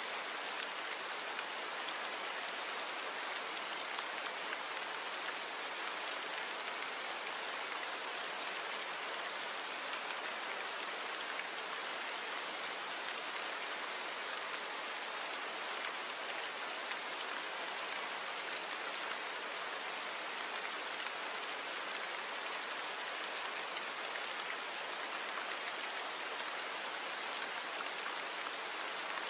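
Steady, even rainfall, a dense hiss of drops falling without a break.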